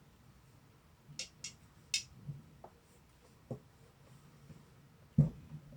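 Window blind being worked loose and taken down: a few short scraping rustles, some light clicks, then one loud thump about five seconds in.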